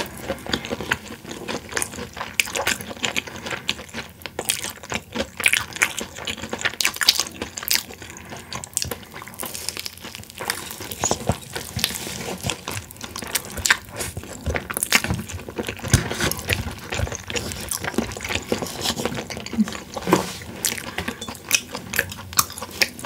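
Close-miked eating of boneless fried chicken: chewing and biting, heard as a dense, irregular run of short crunches and mouth clicks.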